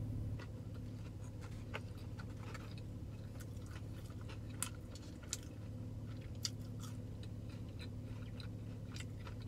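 Close mouth sounds of a person biting and chewing a fried chicken sandwich: scattered wet clicks and small crunches. A steady low hum runs underneath.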